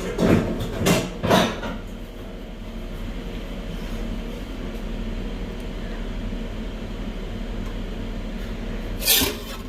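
Kitchen tap running steadily as salad vegetables are rinsed, with a few knocks of handling at the start and a clatter near the end.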